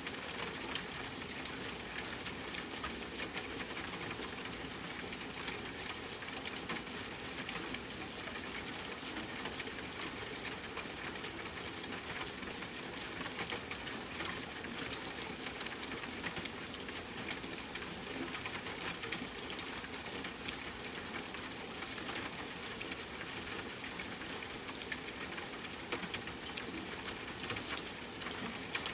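Steady rain falling, with many individual drops ticking sharply against a surface over the even hiss of the downpour.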